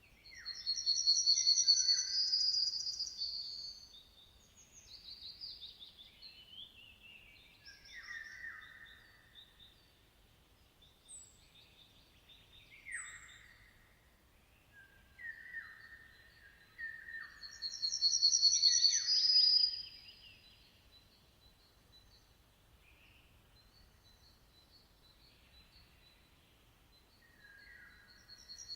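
Songbirds singing: two loud, high, trilled song phrases, one about a second in and another around the middle, with shorter, softer chirps and falling whistled notes between them, and a quieter stretch near the end.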